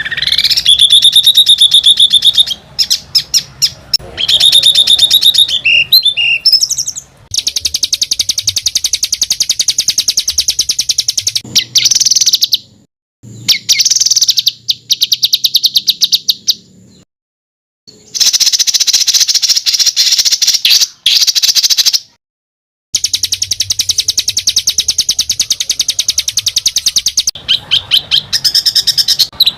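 Songbird song for bird training: fast, tightly packed trills of harsh repeated notes, high-pitched. A short rising whistle and held whistled notes come near the start. The phrases of a few seconds each are broken by abrupt silent gaps.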